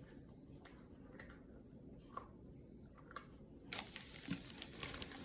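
Faint scattered clicks and small handling noises of people eating snacks, over low room noise.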